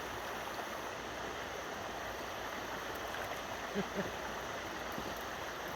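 Steady rush of creek water flowing below a dam. Two short low blips come just past the middle.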